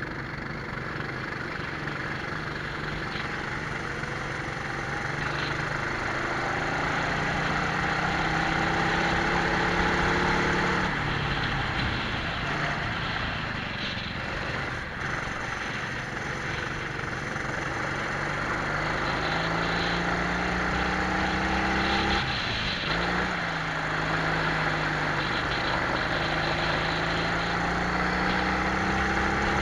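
Twin-engine Prokart heard onboard, the engines rising steadily in pitch under power and dropping back twice as the kart slows for corners. A steady rush of wind and road noise runs underneath.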